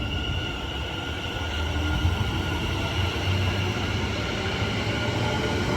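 West Midlands Railway Class 730 Aventra electric multiple unit pulling out of the station: a low rumble with a steady electric whine.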